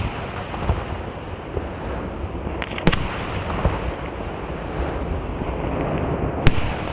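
Aerial firework shells of a Bruscella Fireworks display bursting in a continuous rolling rumble of booms, with sharp cracking reports about three seconds in and again near the end.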